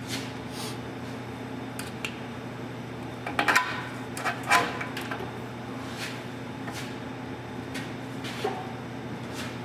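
Metal tools clinking and knocking against metal in irregular, scattered strikes, a few louder clanks about halfway through, over a steady low hum.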